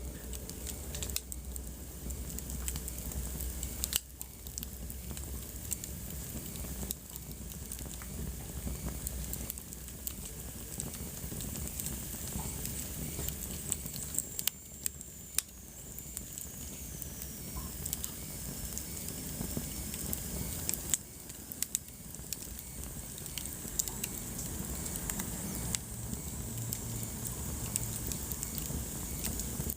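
Wood fire burning in a fireplace, with a steady low hiss and irregular sharp crackles and pops. About halfway through comes a faint high whistle that slides down in pitch.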